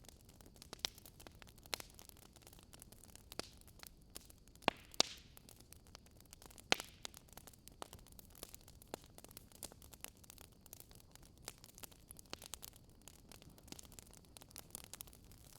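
Wood fire crackling in a fireplace: irregular sharp pops and snaps, a few louder ones around the middle, over a faint steady hiss.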